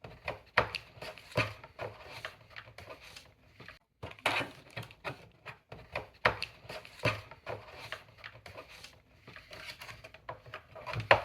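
Irregular clicks, knocks and light rattles of TV stand parts and the TV being handled during assembly, with a short break about four seconds in.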